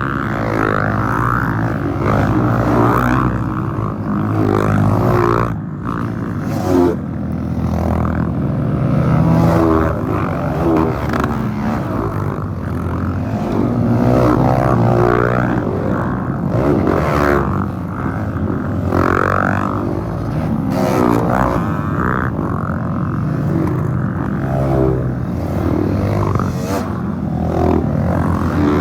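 Several off-road dirt bikes passing one after another, their engines revving up and dropping in pitch as they go by.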